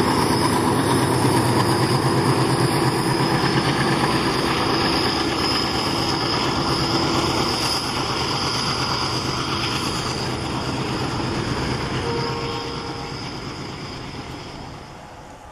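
A long freight train of open bogie wagons rolling past, steel wheels clattering rapidly over the rail joints with a thin high wheel squeal over it. The sound dies away over the last few seconds.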